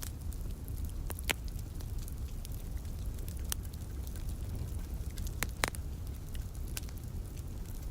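Wood fire crackling in a fireplace: scattered sharp pops and snaps, a couple of louder ones about a second in and just past the middle, over a steady low rumble.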